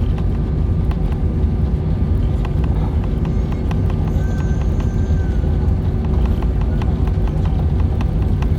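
Airliner cabin noise: a steady low rumble with a constant hum and many quick clicks and rattles throughout, and a faint brief whine about halfway through.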